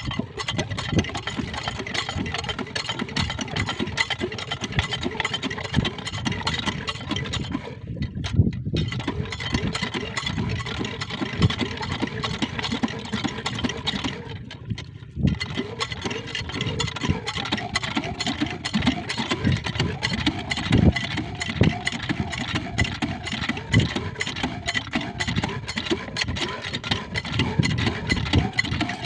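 Small diesel water-pump engine running steadily, a dense, fast mechanical chugging.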